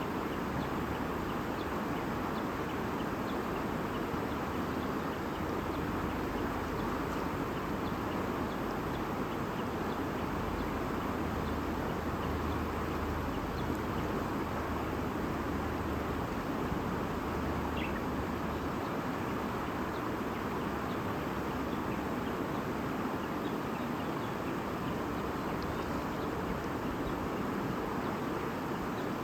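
Babbling stream water running steadily, with faint short bird chirps here and there above it, one a little clearer about two-thirds of the way through.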